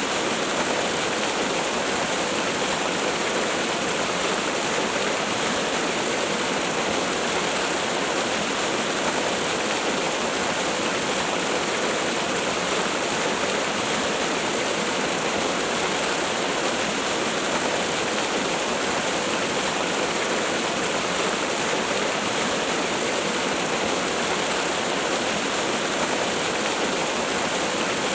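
Waterfall: steady rushing of falling water, an even hiss with little low rumble.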